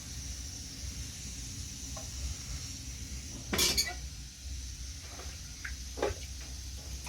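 A few light knocks and one louder sharp clatter about halfway through, over a steady low rumble and faint hiss.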